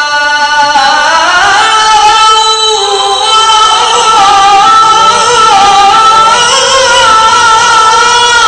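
A male Qur'an reciter's very high-pitched voice holding one long, ornamented melismatic phrase of tilawa recitation. The pitch climbs about a second in, then is sustained with small wavering turns.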